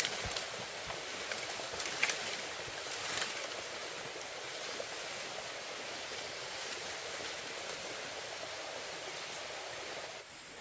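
Steady hiss of falling rain, with a few brief rustles and knocks in the first few seconds.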